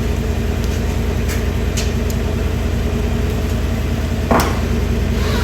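2015 GMC Sierra pickup's engine idling steadily, with a few light clicks and one thump a little past four seconds in.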